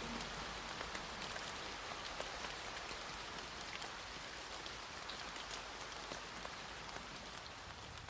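Steady rain falling, an even hiss with scattered ticks of single drops, slowly getting quieter.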